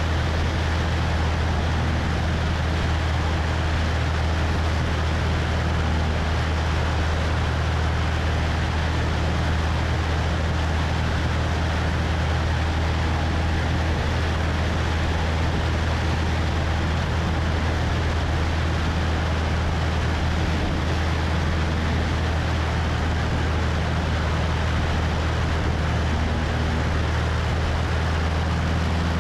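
Cessna 172's piston engine and propeller running steadily in flight, a low even drone with wind rushing over the wing-mounted microphone.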